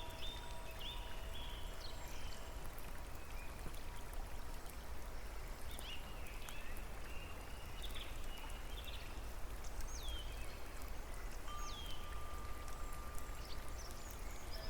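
Steady water noise with small birds chirping now and then, in short downward-sweeping calls. A soft held musical note sounds at the start and another from about three-quarters of the way in.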